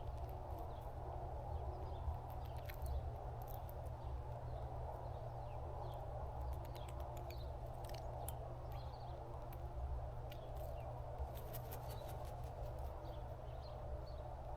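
Faint, short bird chirps scattered over a steady low hum. Light clicking comes in short runs a few seconds in, around the middle and near the end.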